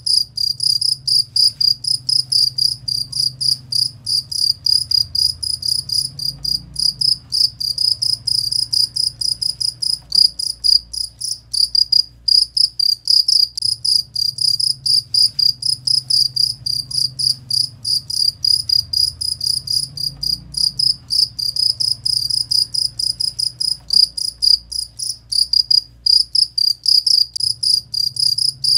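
Cricket chirping in fast, even pulses at a high, steady pitch over a faint low hum.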